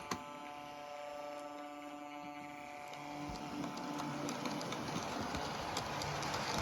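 Model train, a Class 67 diesel hauling Hogwarts coaches, pulling away: a steady motor hum fades while the rolling noise of wheels on track grows louder, with regular clicks over the rail joints near the end.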